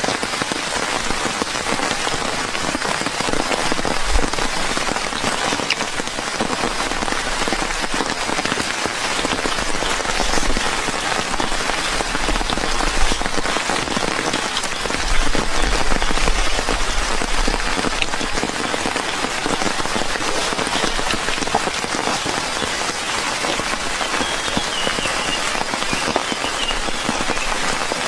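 Steady rain falling, a dense even hiss of drops, with a few brief low thuds about four seconds in and around the middle.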